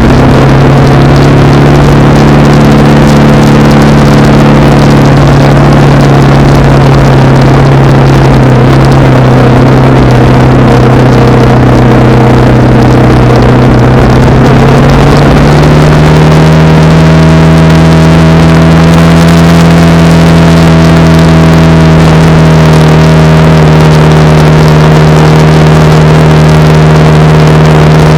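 Honda Rebel 300's single-cylinder engine running at cruising speed under wind noise; about halfway through the engine note rises and then holds steady at the higher pitch.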